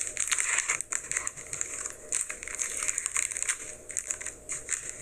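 Plastic wrapper of a king-size Kit Kat bar crinkling irregularly as it is opened by hand.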